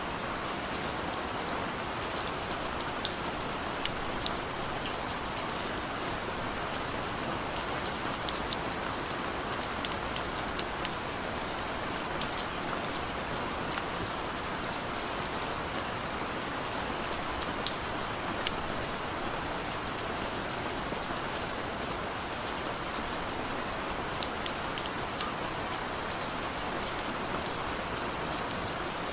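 Steady rain falling, a constant hiss with many individual drops ticking sharply on a surface throughout.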